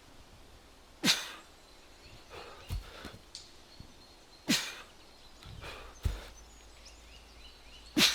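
A strongman's hard, forceful breaths and grunts during repeated overhead presses of a heavy stone, one about every three and a half seconds. Between them come dull thuds of the stone landing, twice.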